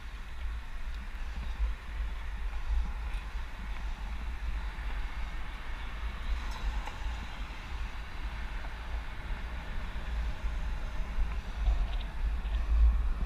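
Wind buffeting the microphone of a GoPro on a moving bicycle, a gusty low rumble, over a steady hiss of road and tyre noise.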